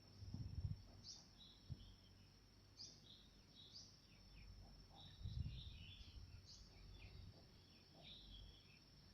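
Faint, short chirping notes of a red-whiskered bulbul repeating about once a second, over a steady high-pitched whine. Two low thumps come about half a second in and near the middle.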